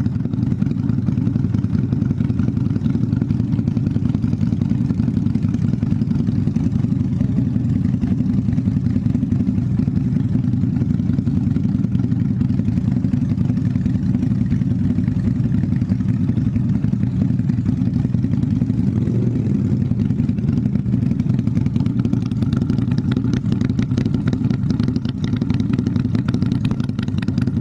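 Customised SRV 250 motorcycle engine idling steadily with a deep, even beat, tuned for a low 'pom pom pom' idle and fitted with a changed air filter.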